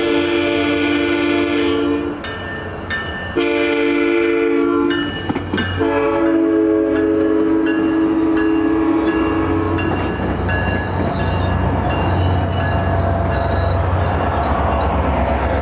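SunRail commuter train sounding its chord horn in three blasts, the last held about four seconds. The bi-level coaches then roll past with a steady rumble, and the deep engine sound of the diesel locomotive pushing at the rear builds near the end.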